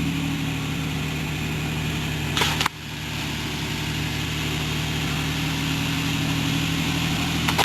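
2007 Suzuki SX4's four-cylinder engine idling steadily just after a cold start. A short noise about two and a half seconds in.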